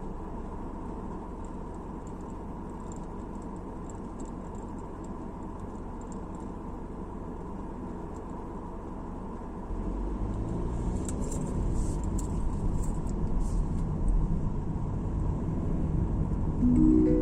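Steady road noise of a moving car: low tyre and engine rumble with hiss. About ten seconds in it turns louder and rougher. A few faint ticks follow, and a short rising tone sounds near the end.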